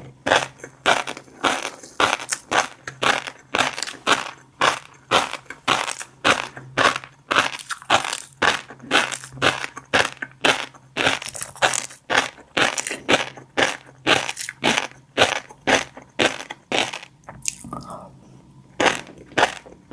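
Close-up chewing of fish roe, the eggs crunching and popping in a steady run of bites about twice a second, with a faint low hum underneath.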